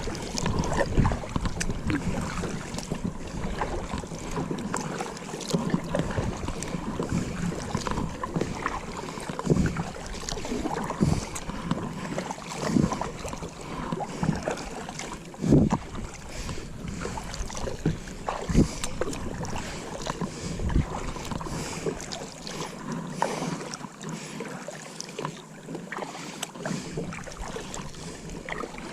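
Water noise around a plastic Pelican kayak, with irregular knocks and splashes every second or few and wind on the microphone.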